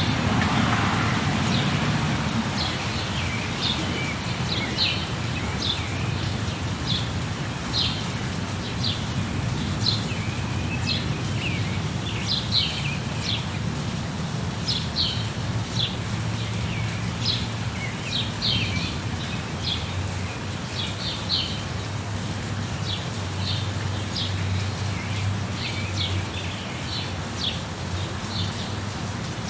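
Steady rain with birds chirping over it, short high calls coming every second or so throughout. A low rumble of thunder fades out in the first couple of seconds.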